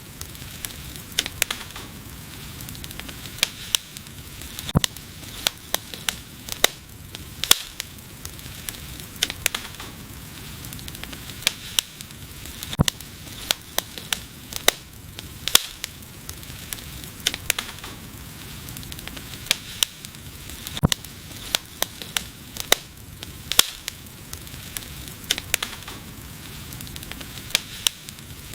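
Wood fire burning: a steady low hiss with frequent sharp, irregular crackles and pops.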